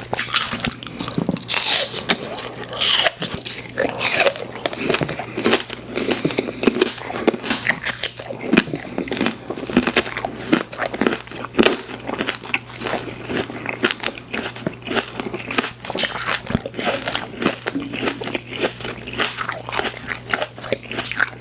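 Close-miked chewing and biting of candy, with dense, irregular crunching and wet mouth clicks, over a steady low hum.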